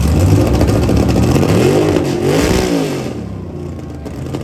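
Fox-body Ford Mustang engine revved hard through a loud exhaust, its pitch climbing and falling in quick blips around the middle before it eases back toward idle.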